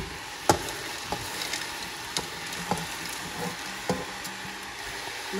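Vegetables sizzling steadily in an aluminium pressure cooker while frozen peas are scooped in by hand from a steel plate, with scattered sharp clicks and taps.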